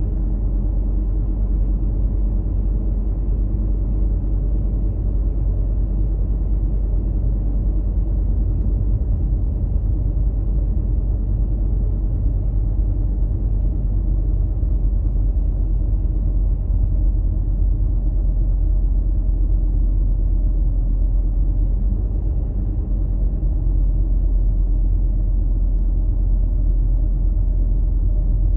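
Steady low rumble of a car driving along a road, unchanging throughout.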